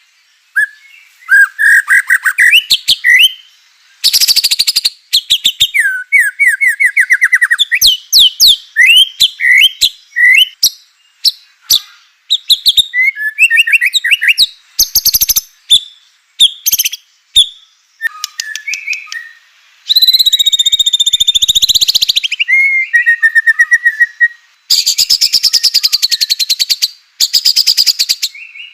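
White-rumped shama singing a varied, loud song: quick whistled phrases that rise and fall, fast trills, and harsh rattling bursts, with short pauses between the phrases. A long harsh rattle comes about two-thirds of the way through, and another loud rattling phrase near the end.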